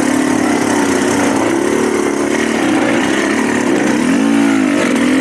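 Dirt bike engine running, its revs wavering up and down, with a quick rev up and back down about four seconds in.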